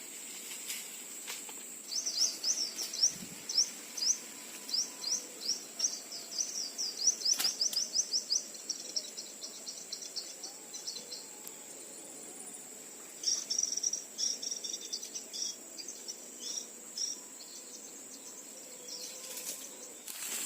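Sunbird call used as a lure, played through a loudspeaker: rapid runs of short, high, down-sweeping chirps in two long bursts, over a steady high insect drone.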